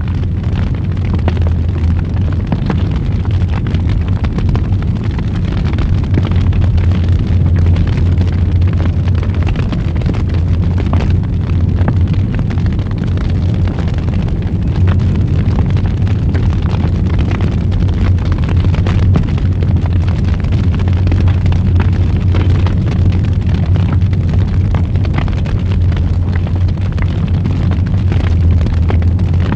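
Wood fire burning in a fireplace, crackling with many small pops over a steady low rumble.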